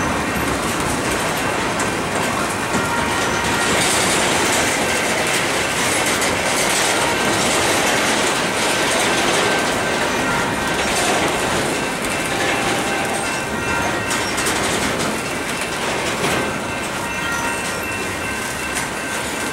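Double-stack intermodal container cars rolling past on steel rails: a steady clatter of wheels over the track, with faint high-pitched wheel squeal.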